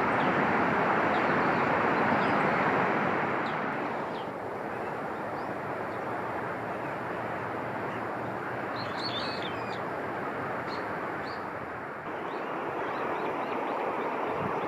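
Small birds chirping faintly over a steady rushing noise. There is a short flurry of high chirps about nine seconds in.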